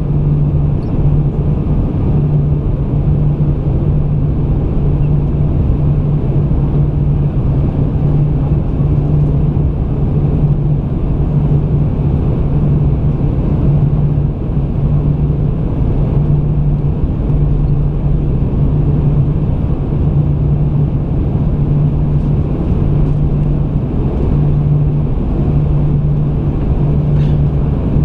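Airbus A320 in flight on its approach, heard from inside the passenger cabin: a steady rumble of engines and airflow with a constant low hum.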